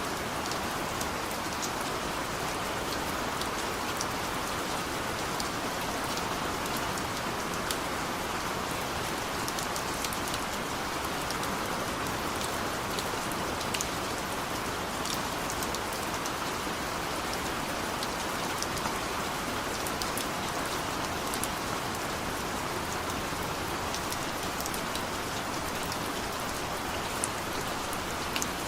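Steady rain falling, an even hiss with scattered sharp drop ticks on top.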